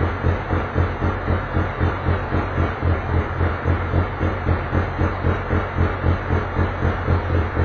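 Touring race car engine running at idle, with an even, lumpy pulse about three times a second.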